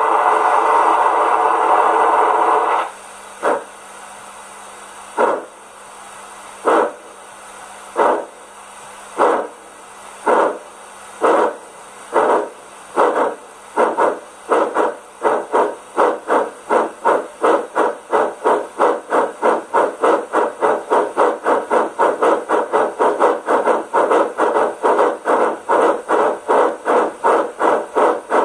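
Sound decoder in a Rivarossi Big Boy H0 model locomotive playing steam-locomotive sound through its small loudspeaker: a steady hiss for about three seconds, then exhaust chuffs that start slowly and speed up to about three a second.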